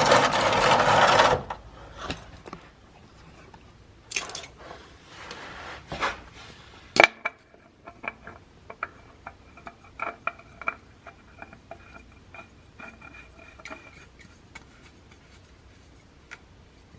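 Clicks, taps and light scraping of tools and parts being handled while a new oil filter is fitted under a car. A loud rushing noise fills the first second and a half, and there is one sharp click about seven seconds in; from then until near the end quick ticking runs over faint steady tones.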